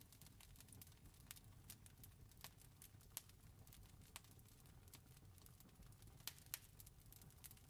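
Faint crackling wood fire: irregular sharp pops and snaps over a low steady rumble.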